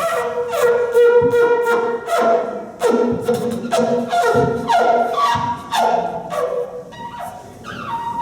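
A wind instrument blowing a run of short notes, about one to two a second, each with a sharp attack, several sliding down in pitch.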